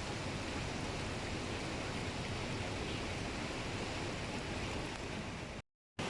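Heavy rain falling, a steady even hiss, which cuts out abruptly to silence for a moment near the end before resuming.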